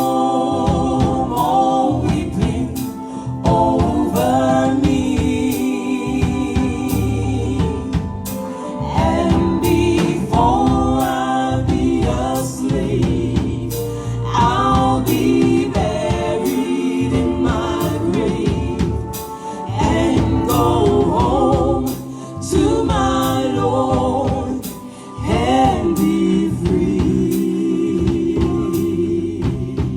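Gospel song sung by voices over band accompaniment with a steady beat.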